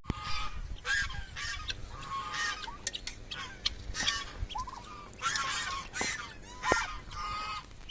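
Domestic turkeys calling: a string of short, nasal calls one after another, a few of them sliding down in pitch.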